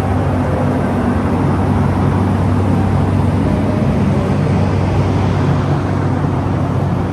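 Loud, steady machine drone with a strong low hum underneath, holding even throughout.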